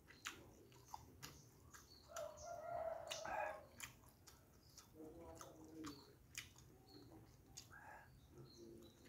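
Close-up eating sounds: chewing and lip-smacking on fried fish and rice eaten by hand, with many short sharp clicks. About two seconds in, a louder drawn-out pitched sound lasts about a second and a half.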